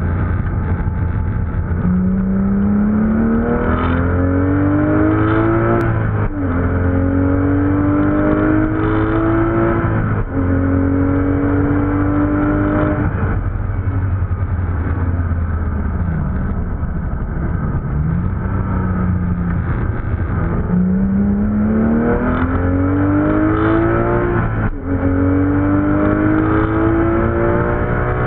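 Porsche 911 GT3's flat-six engine heard from inside the cabin at speed on track. The revs climb hard through the gears, with the note dropping suddenly at each upshift (three in the first half). In the middle it falls and wavers as the car slows, then pulls up again to one more upshift near the end.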